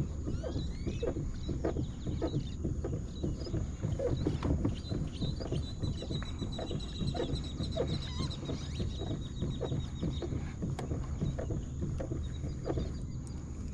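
A flock of seabirds calling, many short, rapid calls overlapping one another, over a steady low rumble of wind and water.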